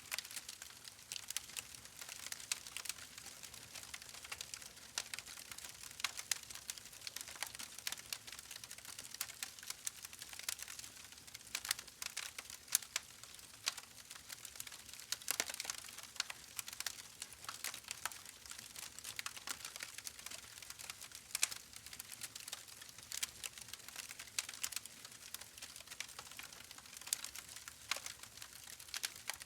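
Continuous soft crackling: many small irregular clicks and pops over a faint hiss, with no steady rhythm.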